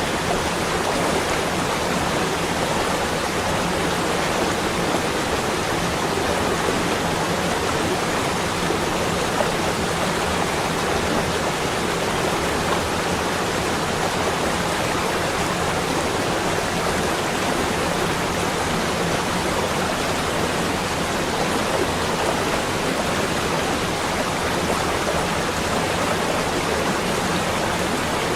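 Steady, even rushing hiss with no separate events, level and unchanging throughout.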